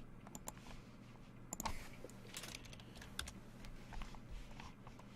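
Faint typing and key clicks on a computer keyboard, in short irregular runs, with a small cluster of clicks about a second and a half in.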